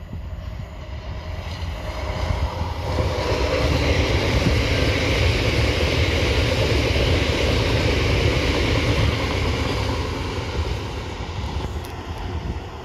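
Great Western Railway Class 800 bi-mode train passing at speed on diesel power, with engine and wheel-on-rail noise. It builds over the first few seconds, is loudest about four to nine seconds in, and fades as the train runs away.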